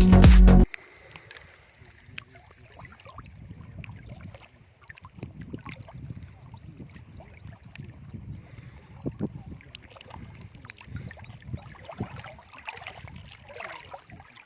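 Electronic background music cuts off under a second in. It is followed by a low rumble of wind on the microphone outdoors, with faint scattered clicks and rustles.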